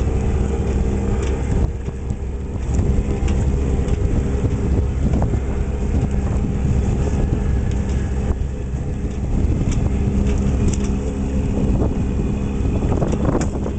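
Boat engine running steadily at a constant pitch, with a low rumble beneath it.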